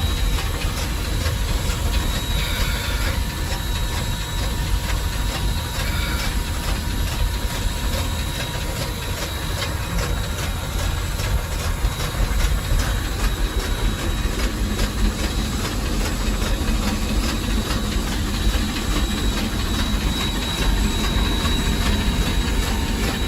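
Cab of a three-truck super-heated Shay geared steam locomotive under way: a steady low rumble and steam hiss, with a fast, even run of light clicks from the running gear.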